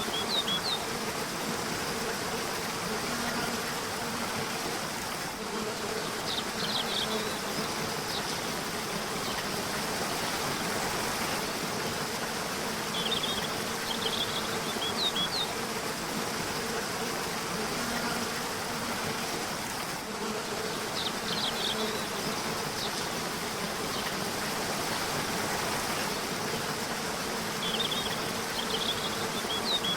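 Steady rush of a river or waterfall, with a low hum under it and short phrases of bird chirps coming back about every seven seconds.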